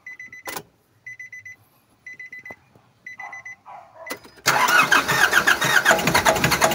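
A dashboard warning chime beeps in short pulsed bursts about once a second, then about four and a half seconds in the Nissan NV350's diesel engine cranks, catches and runs loudly with a knock that the mechanic traces to a holed number 3 piston.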